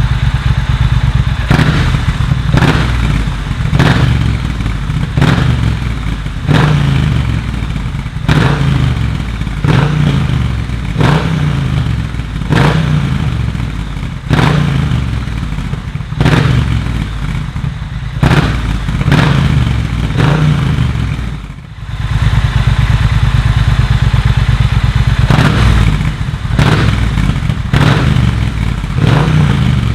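Triumph Bonneville T120's 1200 cc parallel-twin through a de-catted Vance & Hines US-spec exhaust with a Magnaflow X-pipe, its engine speed rising and dropping again and again, with a short sharp noise at each change. About twenty seconds in the sound drops away briefly, then holds steady for a few seconds before the rises and falls start again.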